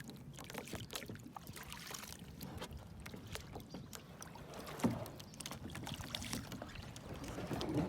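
Kayak paddling on open water: paddle blades dipping in, water dripping and splashing, with many small clicks and splashes. One louder sound stands out about five seconds in.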